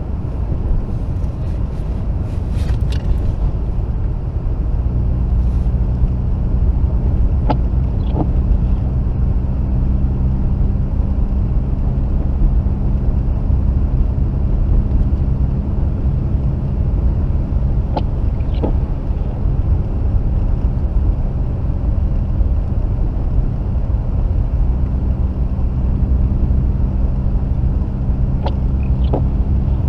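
Mazda RX-8's rotary engine running steadily along with road rumble, heard from inside the cabin while driving. A pair of short clicks comes about every ten seconds.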